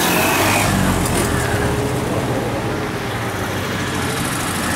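A vintage car's engine running steadily at low speed, with a continuous low rumble.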